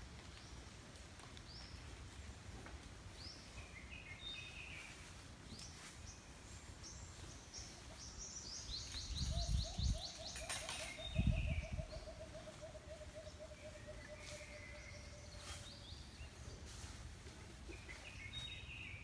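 Several forest birds calling over a steady low background: scattered short high chirps, and just before halfway a fast run of high notes falling in pitch. Then a long series of rapid low notes lasts about five seconds. Two low rumbles come near the middle.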